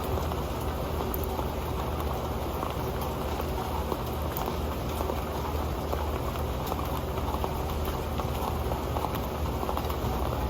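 Steady rain falling on an old pan: a dense run of small drop hits over an even hiss, unchanging throughout.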